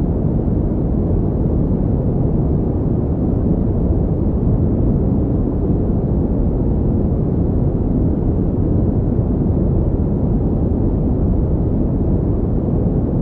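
Continuous synthetic pink noise for sleep and focus: a steady, unchanging rush weighted to the low end, with little high hiss.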